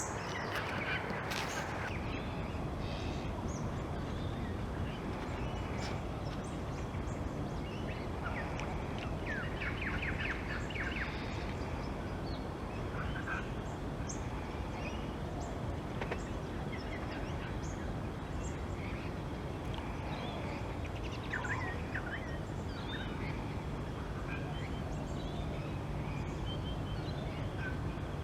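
Birds calling: short scattered calls, with a quick run of repeated chattering notes about a third of the way in and another brief cluster later, over a steady low background rumble.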